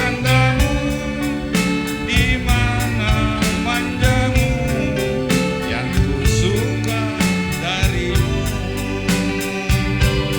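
Javanese gamelan music for a wayang kulit limbukan: a female singer's wavering melody over pitched percussion and a steady drum beat.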